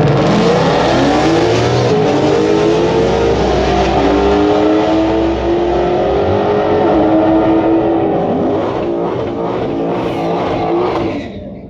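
A car accelerating hard down a drag strip, loud and continuous. Its pitched whine climbs over the first couple of seconds, then holds, and the sound drops off sharply near the end.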